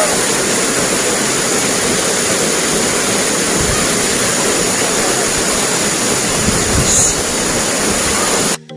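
Waterfall pouring steadily, a dense, even rush of falling water that cuts off suddenly near the end.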